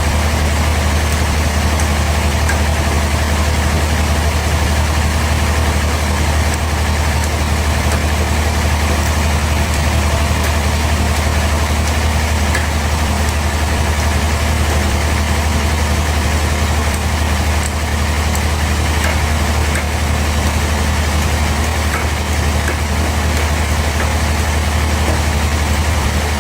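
Band sawmill machinery running steadily: a loud, even engine drone with a strong low hum that does not change.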